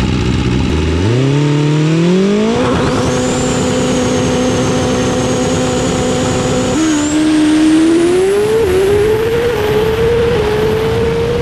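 High-revving sport motorcycle engine accelerating hard. The revs climb quickly, hold steady at high revs with a thin high whine above, drop sharply about seven seconds in like a gear change, then climb again.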